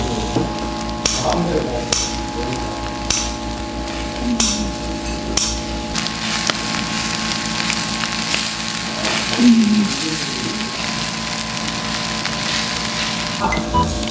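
Webfoot octopus stir-fry sizzling in a hot pan on a portable gas burner, with metal tongs and scissors scraping and chopping through it in several sharp strokes over the first five seconds or so.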